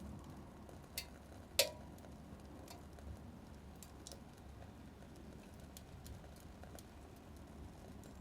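Small wood fire crackling in a mini wood stove: scattered sharp pops over a faint low rumble, the loudest pop about a second and a half in.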